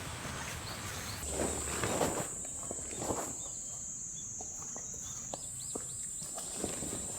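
Slow footsteps on the ground, one every second or so. A steady high-pitched insect trill comes in about a second in.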